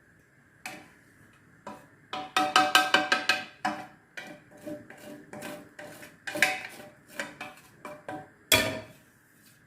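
Cookware clattering: a run of sharp clinking taps with a short ringing tone, densest about two seconds in and again later, ending with one loud knock near the end.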